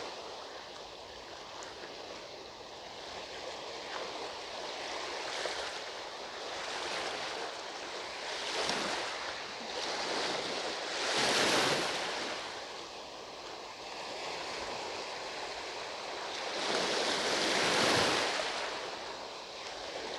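Sea waves breaking and washing onto the shore, a steady surf noise that swells several times, loudest a little past the middle and again near the end.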